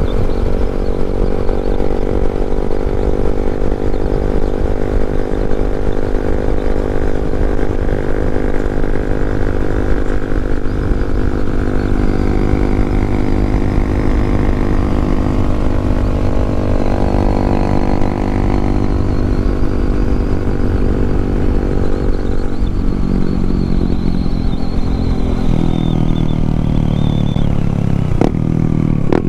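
Yamaha MT-07 motorcycle's parallel-twin engine running under way at a steady speed. About 23 seconds in, the engine note falls as the bike slows, then climbs again near the end.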